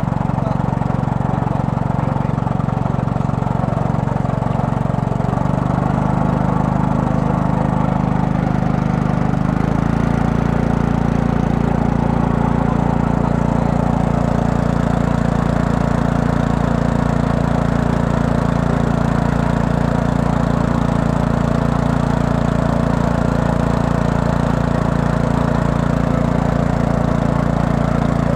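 A small boat's engine runs steadily at low speed. Its note shifts about five seconds in and again near ten seconds, then holds.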